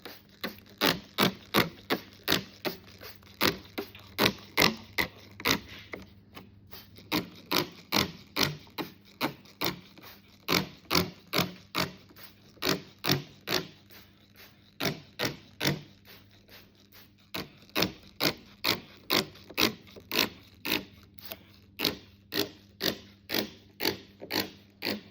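Hand trigger spray bottle of water being squeezed over and over, each pull a short spritz, about two or three a second in runs with a few short pauses.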